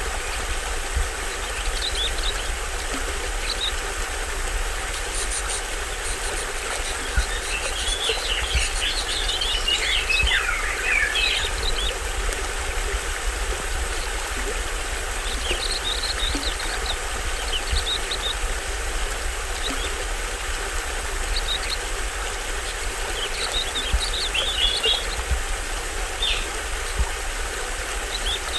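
Small waterfall on a forest stream splashing steadily, with tropical birds chirping in scattered bursts. The busiest run of calls, with falling trills, comes about eight to eleven seconds in.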